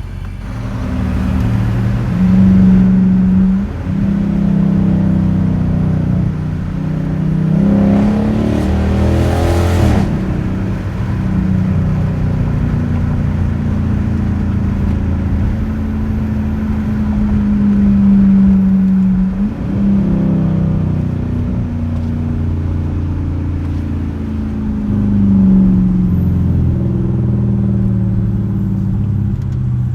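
A 2021 Dodge Durango R/T's 5.7-litre HEMI V8 through a straight-piped exhaust, droning loudly under light acceleration and cruise. Its pitch climbs and then drops sharply a few times as it shifts gears. About nine seconds in, a brief louder rush swells up and cuts off.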